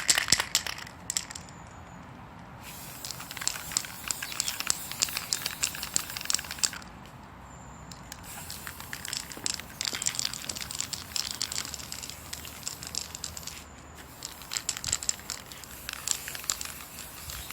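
Aerosol spray paint can spraying in several long hissing bursts with short pauses between them, with a sputtering crackle in the spray.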